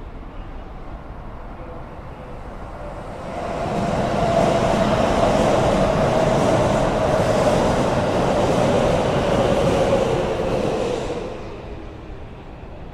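A red Keikyu electric commuter train passing close by: its running noise swells about three seconds in, holds for some seven seconds and fades away near the end, with a steady whine that sinks slightly in pitch as it goes by.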